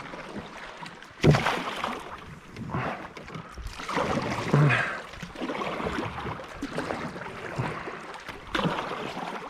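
Canoe being paddled and moved along: irregular splashes and knocks on the hull, the sharpest about a second in.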